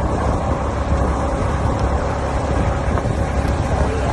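Steady low rumbling noise, with wind buffeting the microphone.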